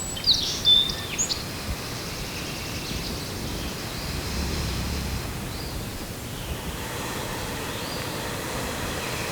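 Outdoor rural ambience: a few high bird chirps in the first second or so, then a steady even hiss of background noise with a faint low rumble around the middle.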